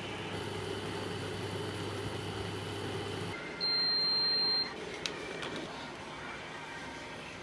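A steady machine hum stops, and a moment later a machine gives one high electronic beep about a second long, followed by a short click.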